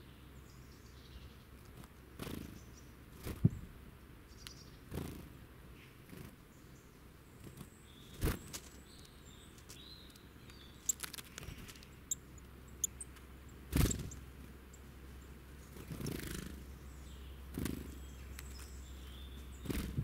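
Small woodland birds (tits and a nuthatch) flying in and out of a feeding spot close to the microphone: short wing flutters and soft landing thumps at irregular intervals, with faint high bird chirps between them.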